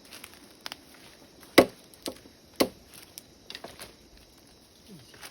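Bamboo being chopped: two sharp, loud chops about a second apart, with lighter knocks and clicks around them.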